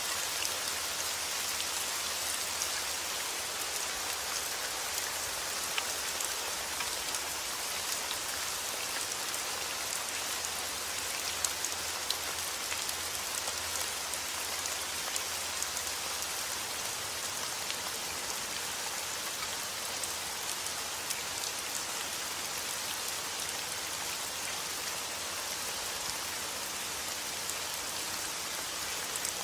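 Heavy rain falling steadily, a dense hiss with many individual drops pattering and ticking on a surface.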